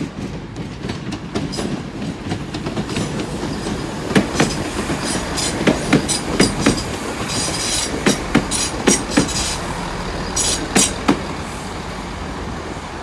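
A train rolling slowly through the station, its wheels clicking over rail joints in pairs, about a dozen clicks from about four seconds in until about eleven seconds, over a steady rumble.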